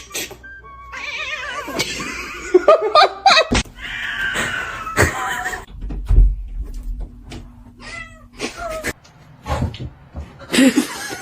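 Cats meowing and yowling: several drawn-out calls that slide up and down in pitch, with scattered knocks and a low thump near the middle.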